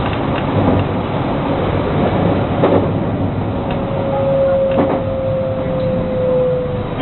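JR West 223 series electric train running, heard from on board: steady wheel and track rumble with a few clicks over rail joints. From about halfway in, the Hitachi traction motor's whine holds one tone that slowly falls in pitch as the train slows for a station.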